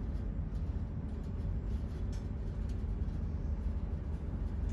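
Steady low rumble of a Great Western Railway Class 800 bi-mode train heard from inside the passenger carriage while the train is moving, with a few faint light ticks over it.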